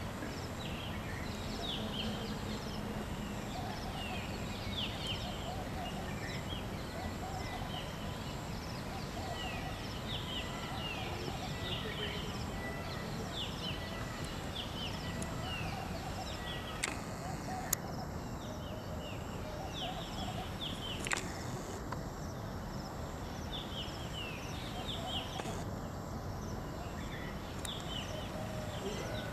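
Outdoor ambience: many short falling bird chirps repeat over a steady hiss. Two sharp clicks come past the middle.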